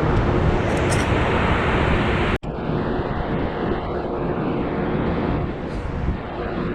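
Jet airliner engine noise: a steady rumble, broken by a momentary dropout about two and a half seconds in.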